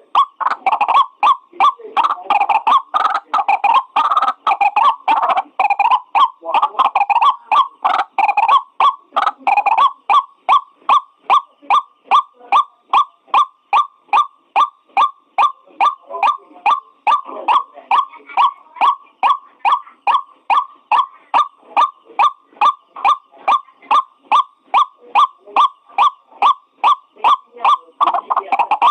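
White-breasted waterhen (ruak-ruak) calling: a long run of rapid, harsh repeated notes, about three a second, busier and overlapping in the first ten seconds, then evenly spaced.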